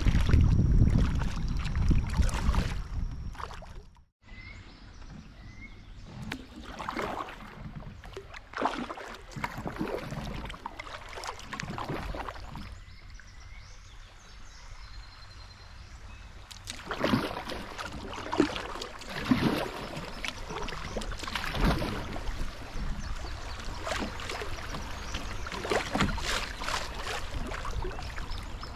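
Kayak paddle strokes splashing in creek water, irregular, every second or two. Wind rumbles on the microphone during the first few seconds.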